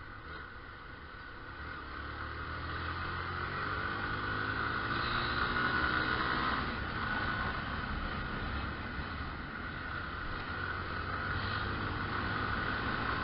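Motorcycle engine running on the move, rising in pitch and loudness as it accelerates until about six seconds in, then easing off and holding steady. Wind rushes across the microphone throughout.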